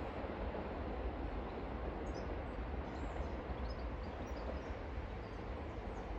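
Steady outdoor background rumble and hiss, with a few faint, short bird chirps in the middle.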